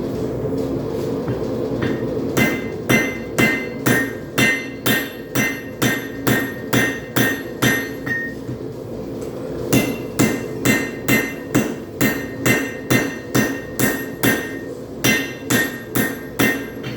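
Hand hammer striking a hot railroad spike on an anvil, about two blows a second, in two runs with a pause of a second and a half near the middle; each blow rings briefly. A steady low roar runs underneath.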